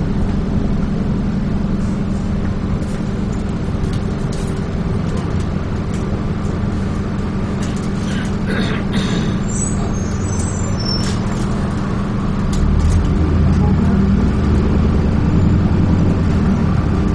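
Interior of a Dennis Trident 2 double-decker bus on the move, its diesel engine running steadily with rattles and clicks from the body. About twelve seconds in, the engine note gets louder and deeper as it pulls harder, and a brief high squeal comes just before.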